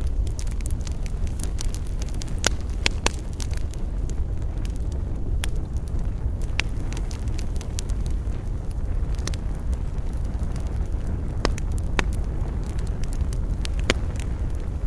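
Wood fire burning, with irregular sharp crackles and pops every second or so over a steady low rumble.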